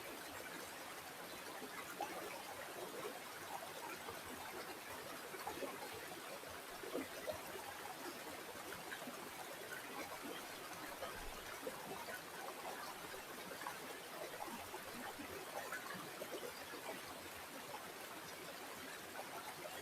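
A small stream of water running and trickling, with many small splashes and gurgles over a steady rush.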